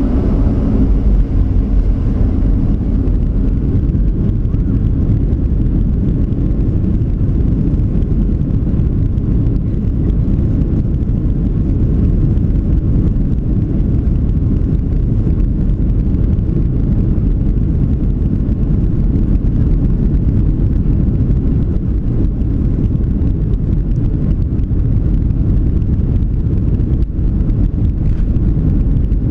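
Steady low rumble inside the passenger cabin of a Boeing 737-700 in flight, the engines and rushing airflow blending into one even drone.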